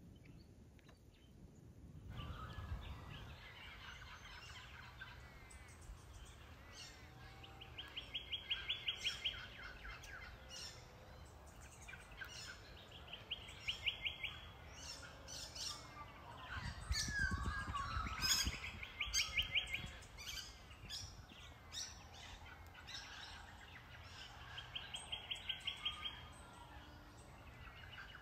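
Wild birds calling, many short high chirps, and one bird repeating a fast, even trill of rapid notes four times, each about a second long.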